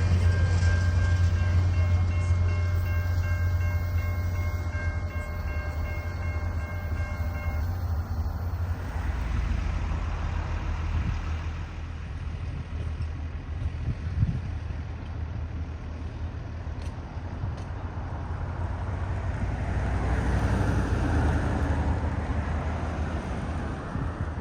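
Train running past: a heavy low engine hum with a steady set of higher tones over it that stops about eight seconds in, followed by the rumble and rolling noise of the train, which swells again near the end.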